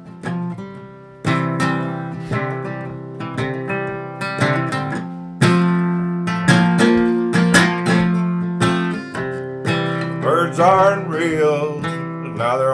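Acoustic guitar strummed and picked as the intro of a folk-style song, with a wordless vocal line wavering in briefly about ten seconds in.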